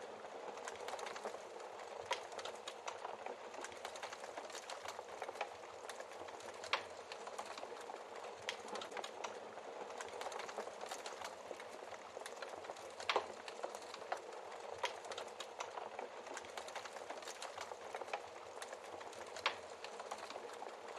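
Wood fire in a fireplace crackling steadily, with dense small crackles and about five sharper pops from the burning logs spread through, the loudest about halfway through.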